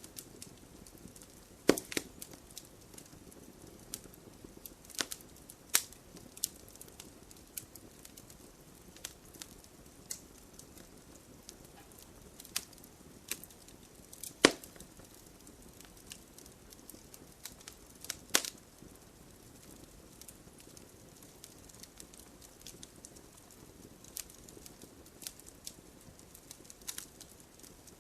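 Wood campfire crackling, with irregular sharp pops over a low steady hiss of burning. A few pops stand out well above the rest, the loudest about halfway through.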